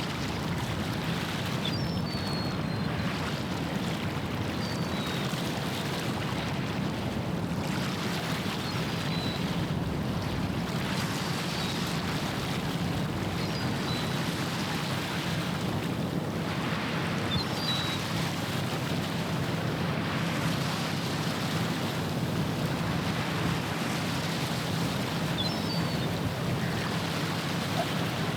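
Steady low drone of a passing ship's engine over the wash of water and wind, with a few faint, short high chirps now and then.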